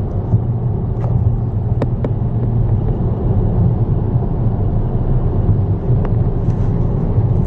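Steady low rumble of engine and road noise inside the cabin of a 2019 Kia Stinger, the 2.0-litre turbocharged four-cylinder version, cruising on a street. A couple of faint clicks are heard.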